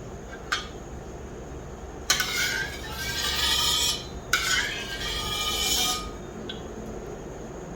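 Metal spatula scraping around a wok of heating oil: a light tap, then two scraping strokes of about two seconds each.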